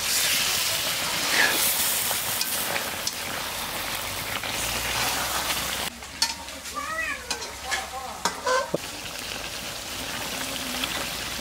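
Rohu fish cooking in a pan of coconut-milk curry, a steady sizzle. About six seconds in the sizzle drops away and a few short rising-and-falling calls and some clicks are heard, then the sizzle returns.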